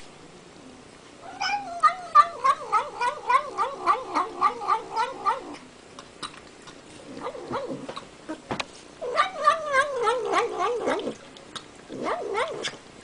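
Domestic cat making a wavering, warbling murmur while it chews its food, with regular chewing clicks about three a second running through it. The noise comes in bouts: the first starts about a second in and lasts about four seconds, and shorter bouts follow.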